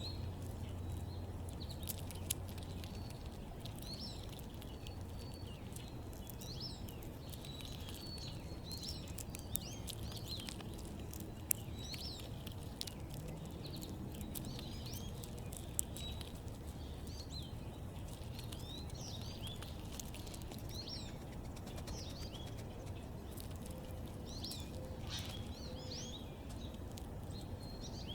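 Small backyard birds chirping in short, repeated calls throughout, with a few sharp ticks here and there over a steady low rumble.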